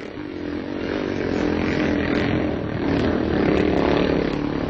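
Motocross motorcycle engines racing, revving up and down with pitch that rises and falls and swells louder twice.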